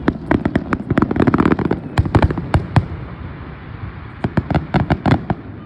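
Fireworks going off in quick volleys of sharp cracks: a dense run for the first three seconds or so, a short lull, then another rapid volley about four seconds in.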